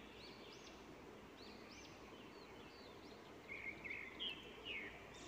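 Faint bird chirping: short, repeated calls that rise and fall, with a few louder chirps in the second half, over a low steady background hiss.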